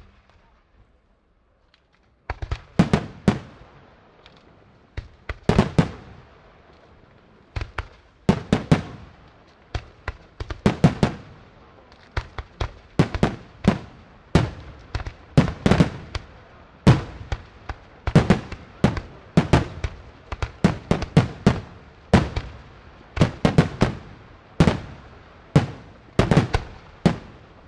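Aerial firework shells bursting in a display: after about two seconds of near quiet, sharp bangs start and come in clusters every second or two, growing more frequent toward the end.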